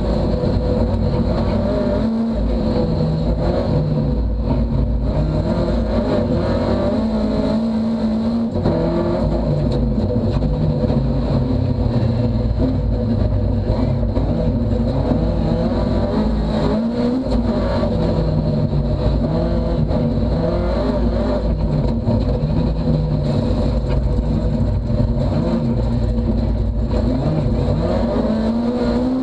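Ford Fiesta rally car's engine heard from inside the stripped, roll-caged cabin, revving up and down through the gears as the car slows for a bend and accelerates hard again.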